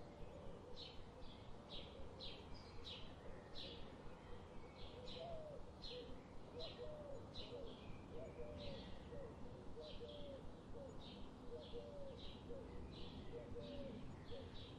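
Forest birdsong: short, high chirps repeated about twice a second throughout, joined about five seconds in by a run of short, lower hooked calls, over a faint steady background hiss.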